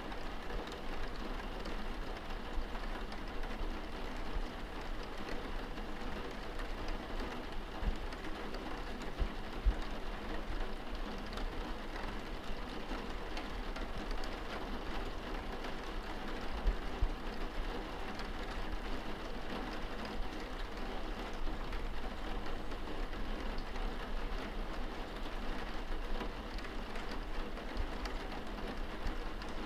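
Steady rain pattering on window glass, heard from inside the room, with scattered drops ticking and a few soft low thumps.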